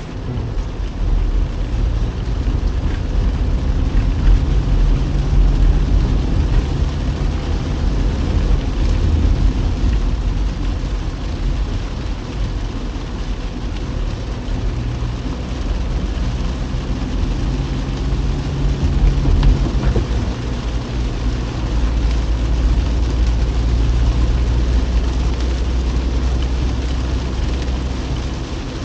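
Car driving in the rain: a steady engine drone with tyre and rain noise, the engine note shifting a few times.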